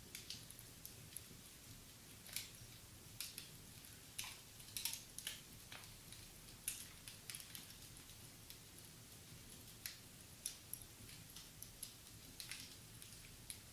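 Wood fire in a fireplace crackling quietly: irregular small snaps and crackles with a few sharper pops.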